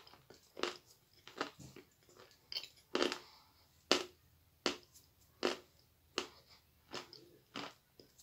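Close-up chewing of crumbly edible clay, with a crisp crunch a little more than once a second and soft mouth sounds in between.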